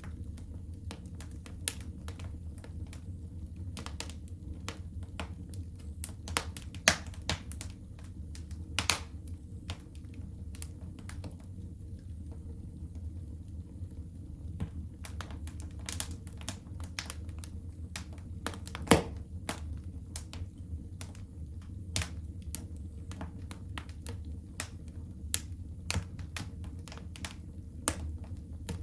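Wood fire burning in a fireplace, crackling with irregular sharp pops over a steady low rumble of the flames, the loudest pops about seven and nineteen seconds in.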